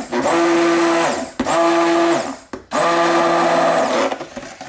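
Handheld stick blender run in short pulses through liquid soap paste in a crock pot: three bursts of about a second each, its motor whine spinning up and dying away each time, then it stops about four seconds in. It is being used to blend back together a soap paste that has liquefied and separated.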